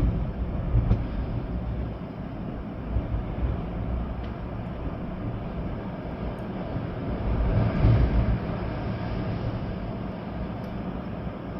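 Storm wind gusting through swaying trees with rain falling, and a heavy low rumble of wind on the microphone. A stronger gust swells about eight seconds in.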